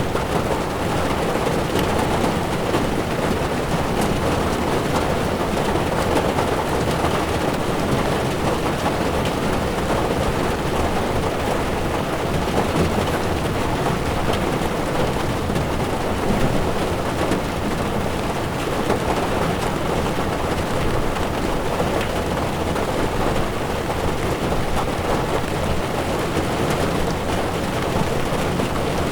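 Heavy rain drumming on a car's windshield and body while the tyres run on a wet road, heard from inside the moving car. It is a steady, even wash of noise with faint scattered ticks of drops on top.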